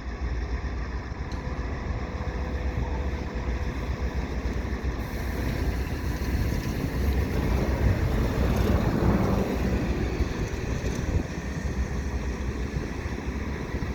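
Road traffic passing on the overpass over a steady low rumble, one vehicle swelling louder and fading away about eight to ten seconds in.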